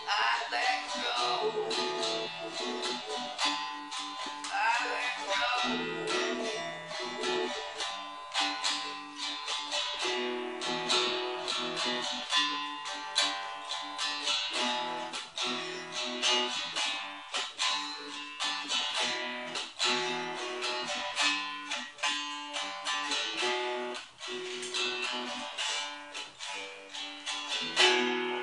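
Ovation acoustic guitar strumming chords in an instrumental outro, with a loud strum near the end.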